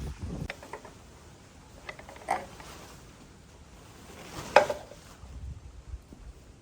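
Metal tools or engine parts clinking and clanking as they are handled, a few light clicks and then a sharp clank with a short metallic ring about four and a half seconds in.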